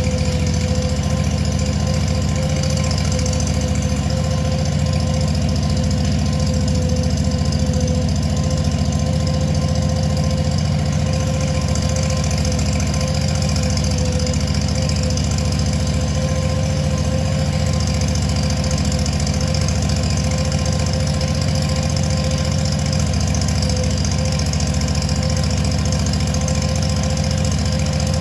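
Ventrac compact tractor's engine running steadily at a constant speed, with a steady mid-pitched whine over the engine note.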